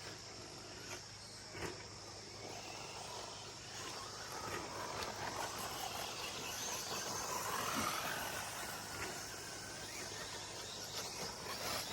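Electric RC short course trucks running on the track, with a motor whine and tyre noise that swell and fade as they pass, loudest a little past the middle. A steady high insect buzz runs underneath.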